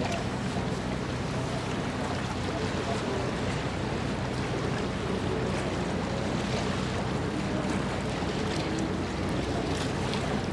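A ship underway: a steady low hum with water and wind noise, and wind buffeting the microphone, unchanging throughout.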